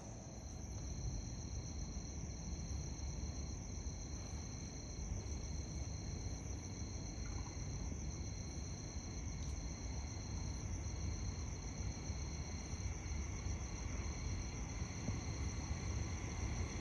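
Night insects trilling in steady high-pitched tones, one trill breaking off briefly a little more than once a second, over a low steady rumble.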